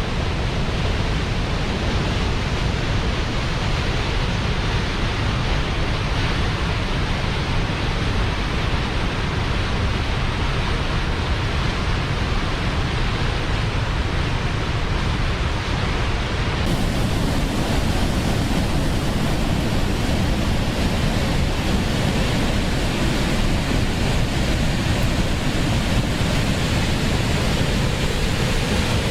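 Waterfall: a steady, loud rush of falling water. About two-thirds of the way in, the sound switches abruptly to a brighter, hissier rush.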